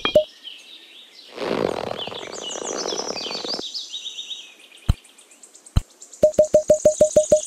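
Small birds chirping, over a rustling noise in the first half. Then come two sharp clicks and a rapid, even run of ticks, about five a second.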